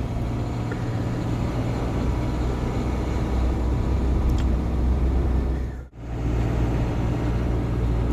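GAZon Next truck's diesel engine and tyre noise, a steady low drone while driving on the highway. The sound cuts out for a moment about six seconds in.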